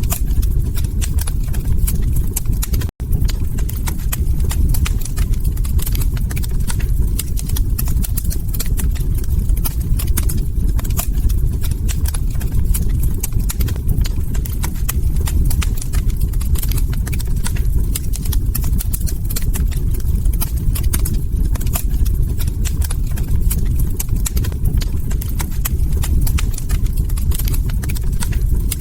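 Log fire crackling and popping over a steady low rumble of burning. The crackles come in quick, irregular clicks. The whole sound cuts out for an instant about three seconds in.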